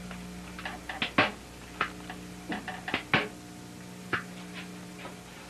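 Hand staple gun firing staples to fasten cotton bias tape along a wooden canoe keelson: about half a dozen sharp clacks at uneven intervals, the loudest about a second in and about three seconds in.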